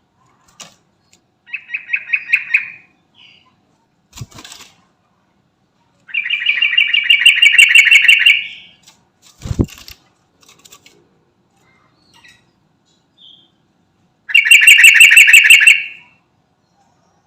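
Sooty-headed bulbul (trucukan) calling in three bursts of fast, evenly repeated chattering notes, the middle one the longest at about two and a half seconds. Two short thumps fall between the bursts.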